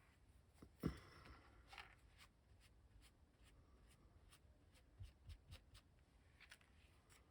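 Quiet handling of paper on a tabletop: a glued paper portrait being pressed down onto a journal page. There is a soft knock about a second in, two more halfway through, and faint rustles and ticks in between.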